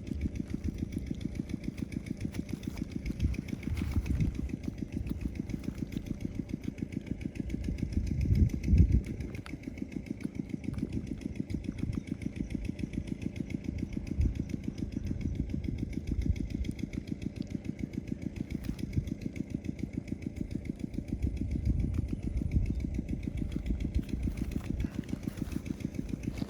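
A small engine running steadily with a fast, even pulse, louder for a moment about nine seconds in.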